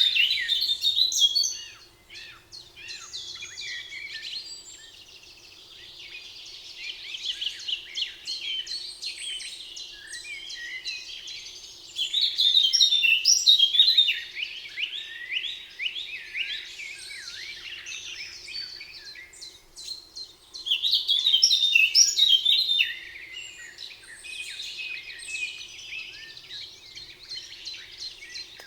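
Several songbirds singing together in a forest, quick chirps and trills overlapping, with louder bursts of song near the start, around the middle and about two-thirds of the way through.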